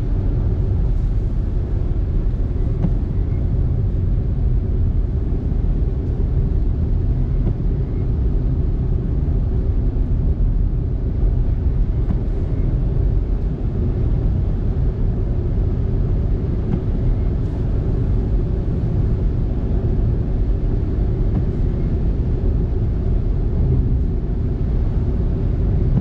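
Steady low rumble of road and tyre noise heard from inside a moving car's cabin, with no distinct events.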